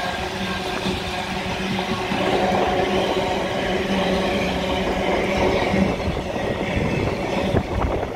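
Freight wagons of an engineering train rolling past at speed: a steady rumble of steel wheels on rail with a humming tone, getting louder about two seconds in, and sharp clicks of wheels over rail joints near the end.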